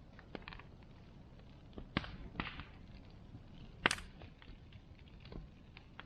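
Wood bonfire crackling, with irregular sharp pops over a faint low hiss; the loudest pop comes about four seconds in.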